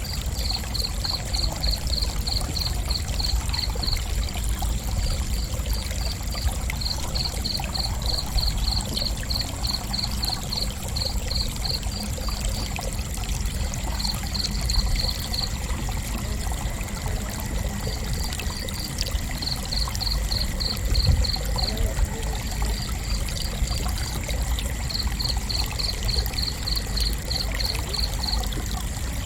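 Crickets chirping: runs of regular high chirps, about three a second, lasting a few seconds each with short pauses between. A steady thin high whine sits above them, over a constant low rushing background noise.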